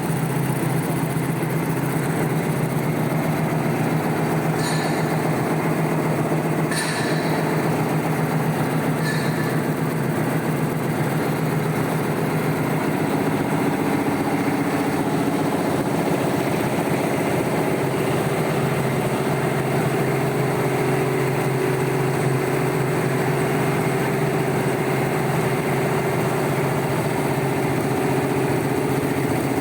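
High-speed warp knitting machine, making bale net, running steadily with an even mechanical din. Three short high chirps sound within the first ten seconds.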